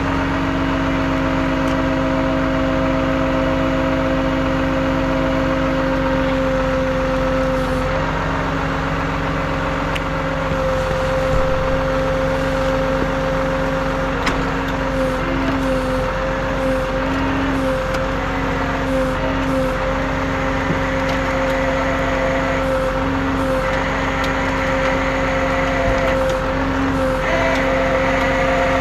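Vehicle engine running steadily at a constant speed, a continuous drone whose pitch wavers slightly from about halfway through.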